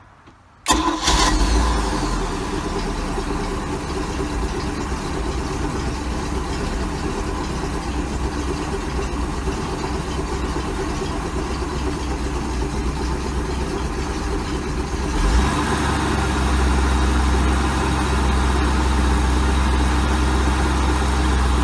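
Mercury Marine 5.7 litre V8 boat engine firing up at once, about a second in, and then idling steadily. The engine has freshly replaced water and fuel pumps. About two-thirds of the way through, its sound grows fuller and a little louder.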